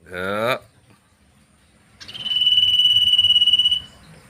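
Cirtu cricket call from a bird-training (masteran) recording: one steady, high, buzzing trill held for nearly two seconds, starting about two seconds in. A short call from a man's voice comes right at the start.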